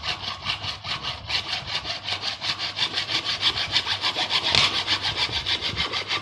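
Plastic bottle being cut with rapid, even back-and-forth sawing strokes, a little louder a few seconds in.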